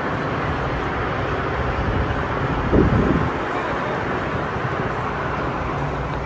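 Busy city street ambience: a steady wash of traffic and distant voices, with a brief louder burst about three seconds in.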